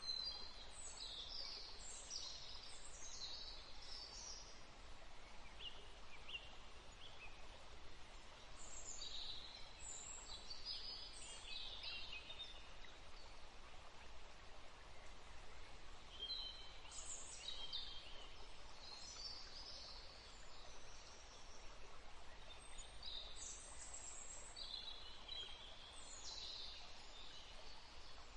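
Small birds chirping in clusters of quick high notes, a burst every few seconds, over a steady background hiss.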